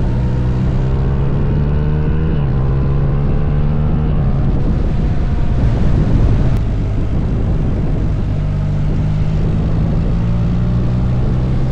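BMW motorcycle engine pulling through the gears on a quick shifter: the note rises, drops sharply at an upshift about two seconds in, rises again, then settles to a steady cruising note in the second half.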